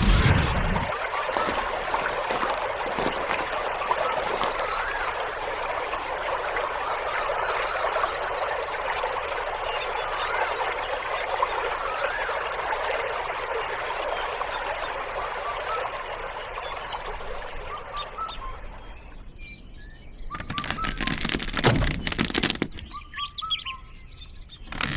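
A dense chorus of many birds chirping, thinning out about nineteen seconds in. Near the end comes a couple of seconds of sharp clattering knocks.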